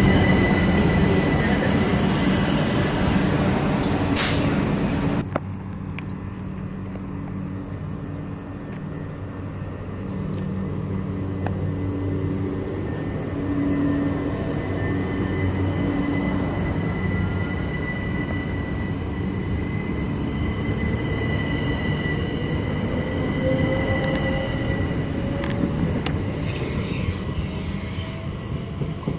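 Passenger train at a station, running with a steady low mechanical hum and a thin, steady high squeal from the wheels. It is loud at first and drops sharply about five seconds in. Near the end a whine slowly rises in pitch.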